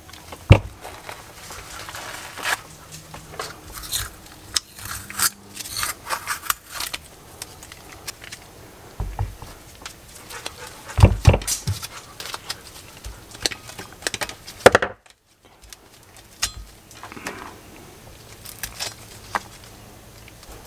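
Hands working on a freshly painted brake caliper: scattered clicks, taps and rustles of small parts and tools being handled, with a few louder knocks of metal set down about halfway through.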